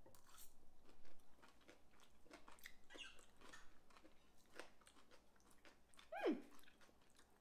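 Faint chewing of mouthfuls of raw sauerkraut salad with chopped celery, crunching in small irregular bites. About six seconds in, a short vocal sound slides down in pitch.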